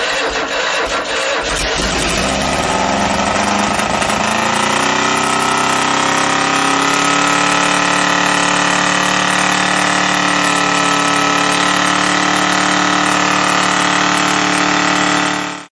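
A newly built 1776cc air-cooled Volkswagen Type 1 flat-four engine running on its first cold start. It runs unevenly at first, then its pitch rises a little and settles into a steady idle after about five seconds. The sound cuts off suddenly just before the end.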